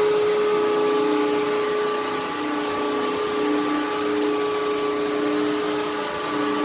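Bissell CrossWave Cordless Max wet-dry vacuum running: a steady motor hum and whine over a hiss of air, with a lower tone that comes and goes.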